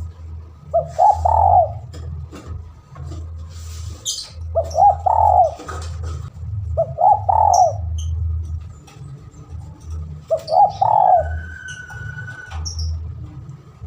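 Spotted dove (tekukur) cooing: four phrases a few seconds apart, each a quick run of arched coo notes. Underneath are a steady low rumble and faint high chirps from other small birds.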